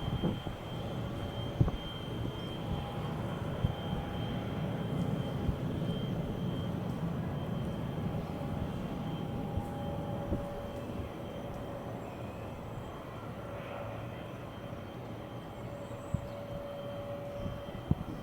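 Airbus A320-214's CFM56 jet engines heard from the ground as the aircraft climbs away after takeoff: a steady low rumble that slowly fades.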